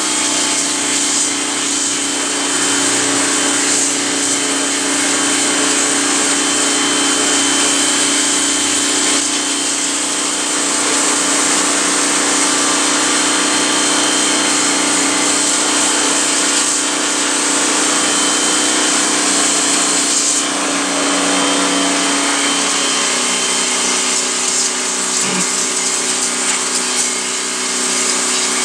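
An electric motor running steadily with a loud hiss and a constant whine, its pitch dropping slightly about two-thirds of the way through.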